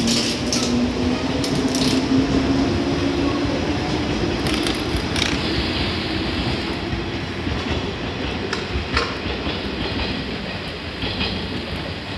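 A JR West 103 series electric train pulls out and draws away. Its traction motors give a whine that rises in pitch over the first few seconds, and the wheels clack over rail joints with scattered sharp clicks.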